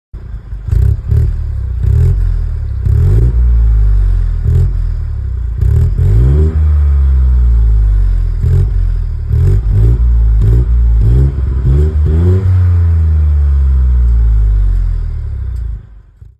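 BMW F40 118i's three-cylinder turbo engine heard through a freshly fitted Ragazzon rear silencer with no flap control, cold from its first start after fitting. It is revved in many quick blips with a few longer held revs, the pitch rising and falling with each, then dies away near the end.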